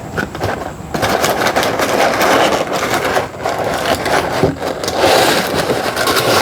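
Parts packaging being opened by hand: dense rustling and crinkling with many sharp crackles, starting about a second in.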